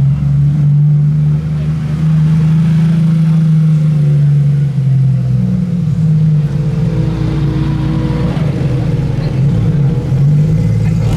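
Car engine running steadily with a loud, deep drone, its pitch shifting slightly about halfway through.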